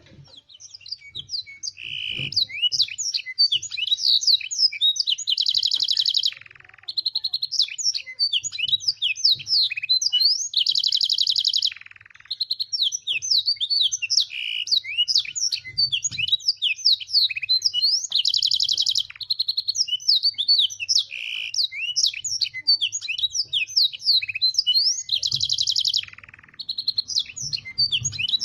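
Domestic canary singing continuously: a fast, varied song of chirps, sweeping whistles and dense buzzy rolls, learned from blackthroat and sanger tutor songs. The song breaks off briefly three times.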